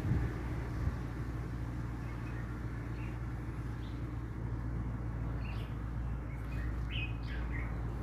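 Birds chirping, a scatter of short high chirps mostly in the second half, over a steady low hum.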